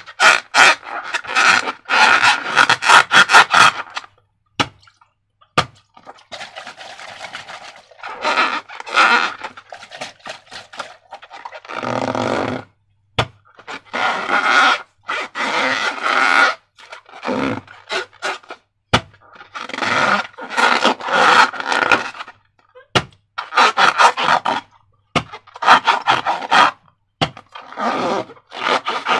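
Slime being squeezed and stretched by hand: bursts of sticky, wet crackling and clicking, each a second or two long, with short pauses between.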